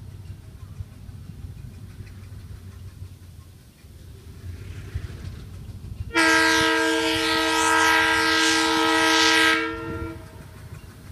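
Diesel locomotive's air horn sounding one long blast of several notes at once, lasting about three and a half seconds and starting about six seconds in, over the low rumble of a diesel engine.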